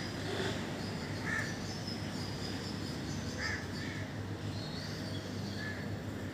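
A bird calling outdoors, short harsh calls repeated about every two seconds, over a steady low background rumble.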